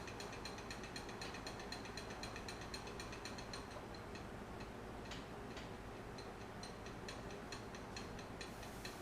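Wood lathe spinning slowly, at about 120 RPM, with a rapid, even ticking over a low hum.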